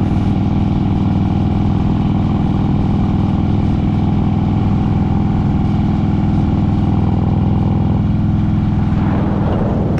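Harley-Davidson touring motorcycle's V-twin engine running at a steady cruise, with an even, unchanging engine note under road and wind noise.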